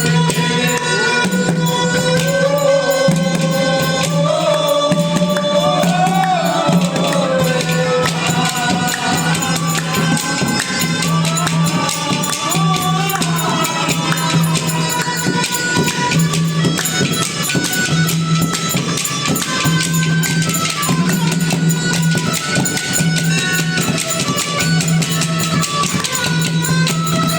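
Haryanvi folk music: a steady low drone under a wavering melody line, with dense, fast percussion.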